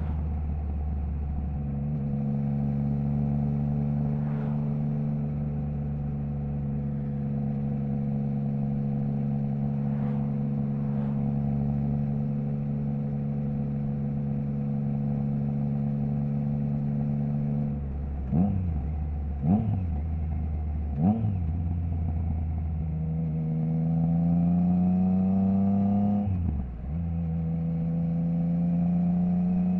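Triumph Trident 660's three-cylinder engine through a baffle-removed Zard stainless full exhaust, running at steady revs for the first two-thirds. Then come three quick, sharp revs a little over a second apart, then a climb in revs, a brief dip at a gear change and steady running again.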